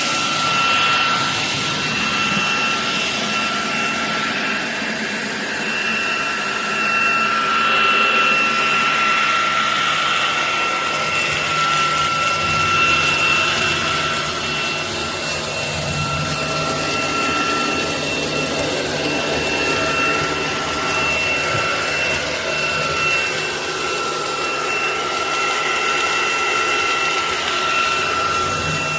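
SunSare X11 cordless stick vacuum running steadily: an even rush of air over a constant high motor whine.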